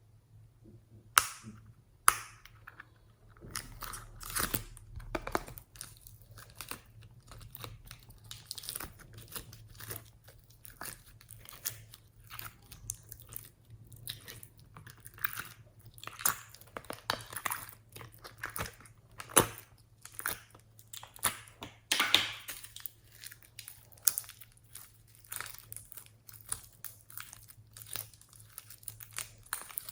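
Slime being mixed and squished by hand, with dense, irregular sticky crackles and pops. Two sharp clicks come early, about a second and two seconds in.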